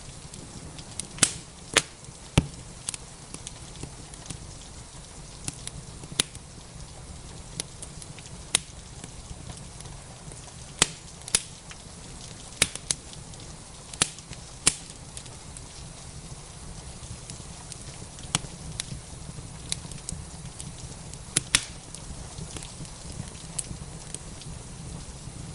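Fireplace fire crackling: irregular sharp pops and snaps, a few much louder than the rest, over a steady rain-like hiss.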